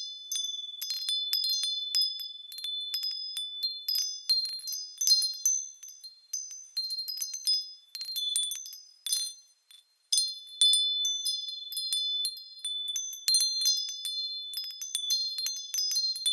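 Small high-pitched bells swaying and striking at random like wind chimes, with overlapping ringing tones and one brief lull about ten seconds in.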